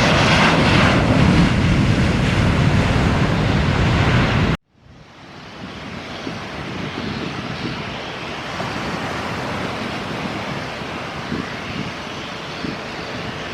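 Airliner's engine roar, loud for about four and a half seconds, then cut off abruptly. After that, a quieter steady rushing noise with wind on the microphone.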